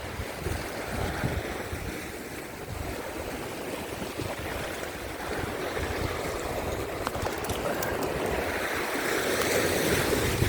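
Rough surf washing over sea rocks, with gusty wind buffeting the microphone; the wash swells louder near the end.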